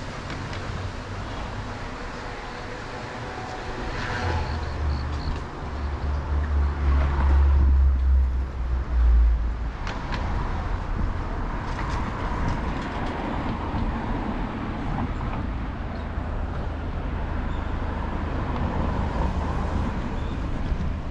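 City street traffic heard from a moving bicycle, with a large vehicle's engine rumbling close by for several seconds starting about four seconds in and loudest just before the halfway point. After it fades, steady traffic and road noise.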